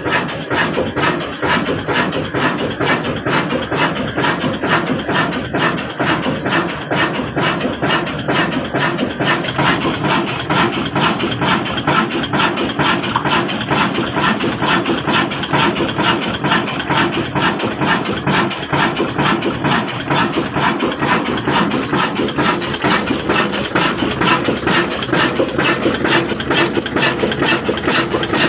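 Old black diesel engine running steadily with a fast, even beat.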